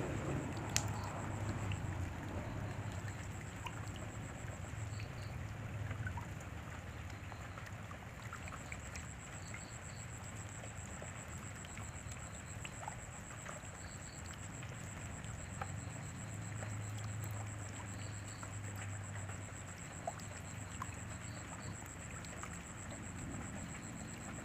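Steady rain falling, with scattered drips and drops, under a faint steady high-pitched whine and occasional short double chirps.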